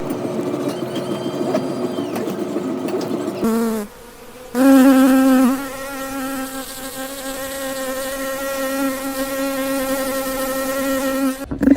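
A flying insect buzzing with a steady drone, broken off briefly about three and a half seconds in, then buzzing again at a lower pitch.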